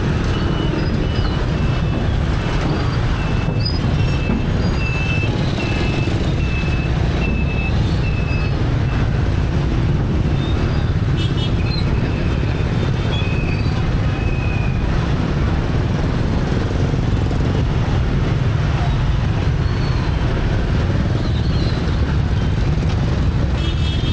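Street traffic heard from a moving motorbike: a steady, loud low rumble of engines and road noise, with a short electronic beep repeating about every two-thirds of a second for the first nine seconds or so. A brief horn-like toot sounds about eleven seconds in.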